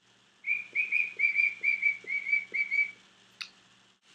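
Young cockatiel whistling a quick run of about a dozen short, clear notes, nearly all on one pitch, then a single sharp click near the end.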